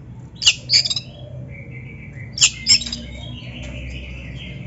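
Oriental magpie-robin (kacer) singing: a pair of sharp, loud chattering notes, the same pair again about two seconds later, with a thin drawn-out whistle between them and near the end.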